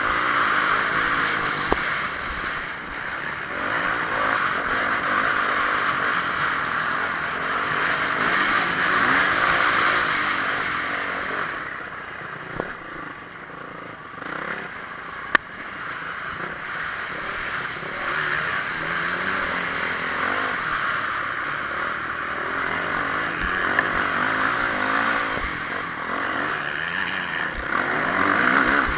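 Honda CRF450R single-cylinder four-stroke motocross engine racing, its revs rising and falling over a rough rushing noise. It eases off for a few seconds around the middle, then picks up again, with a sharp click or knock partway through.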